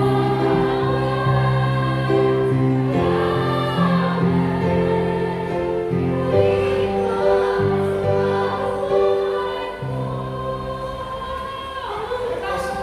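Choir singing a slow worship song in long, held notes.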